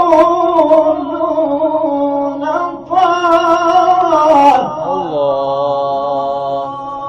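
Quran recited in melodic tajweed style in maqam Sikah: a single voice holding long, ornamented notes. It breaks off briefly about three seconds in, starts a new phrase, and slides down into another long held note.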